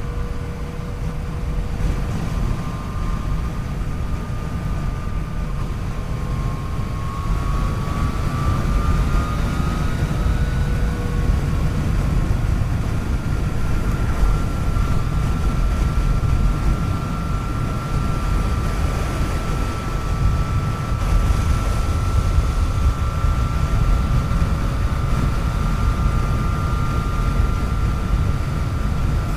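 Yamaha FJ-09's 847 cc inline three-cylinder engine pulling the motorcycle along under way, heard over a heavy low rush of wind noise. Its whine rises in pitch about seven seconds in and then holds steady.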